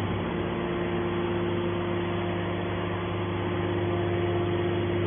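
Hydraulic baler's power unit running, a steady machine hum with a constant tone.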